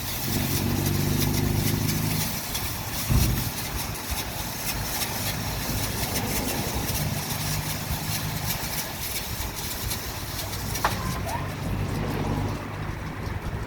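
Washtec SoftCare Pro automatic car wash machine working over a car: a steady hiss of water and brushes over a low motor hum, with a heavy thump about three seconds in and a sharp click near the end.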